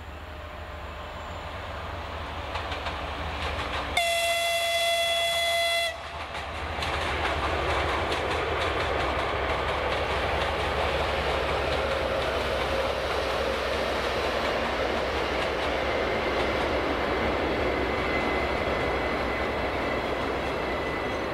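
A Lastochka ES1P passenger train runs past. It sounds one steady horn blast of about two seconds, about four seconds in, then comes the loud, even rumble and clatter of its wheels on the rails as the cars go by.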